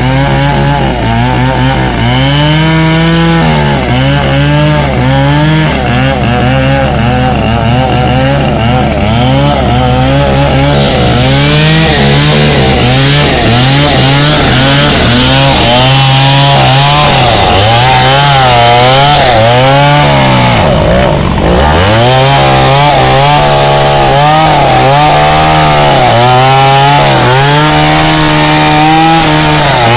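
Excavator's diesel engine working hard. Its pitch repeatedly sags under load and recovers as the hydraulics dig and push, with one deeper sag about two-thirds of the way through.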